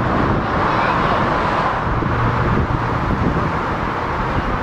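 Steady rumble and hiss of an approaching electric commuter train, the low rumble swelling about two to three seconds in.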